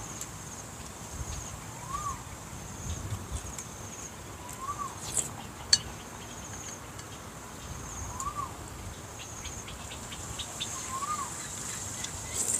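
A bird repeats a short call that rises and falls, once every two to three seconds, over steady high chirping. A couple of sharp clicks come about five seconds in.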